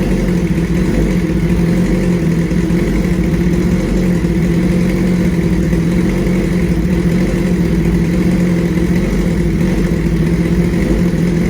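2005 Suzuki GSX-R1000's inline four-cylinder engine idling steadily through a Brock's aftermarket exhaust.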